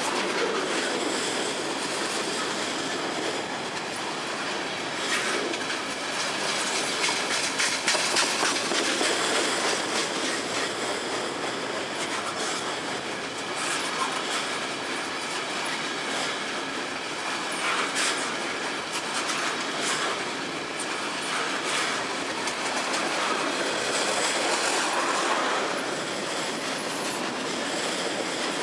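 Freight train cars rolling past close by: steady noise of steel wheels on rail, with irregular clicks and clacks as the wheels cross rail joints.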